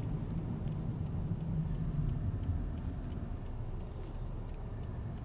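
Car driving slowly, heard from a camera mounted outside on its hood: a steady low rumble of engine and tyres on the road that eases slightly about halfway, with faint light ticks scattered through it.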